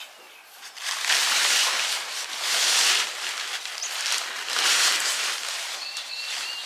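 Rustling noise that starts about a second in and swells and fades three times, with a faint high chirp near the end.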